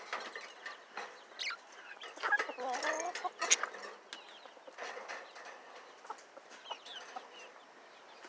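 Budgerigars chirping and chattering: a steady scatter of short, quick calls, with a few sharper chirps.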